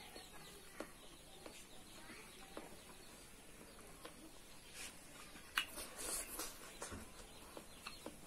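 Faint chewing of pork belly, with wet mouth clicks and smacks scattered through, and a sharper click about five and a half seconds in.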